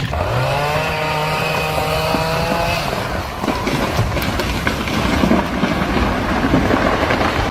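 An engine revving up at the start and holding a steady high pitch for about three seconds, then running rougher with clattering mechanical noise.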